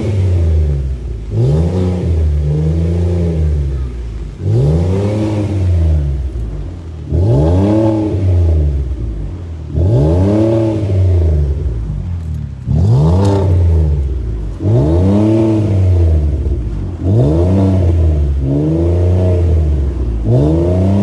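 V6 Ford Explorer engine revved over and over through an aftermarket exhaust, the pitch climbing and falling back about once every two to three seconds. It gives the deep rumble and V6 note the new exhaust is meant to bring out.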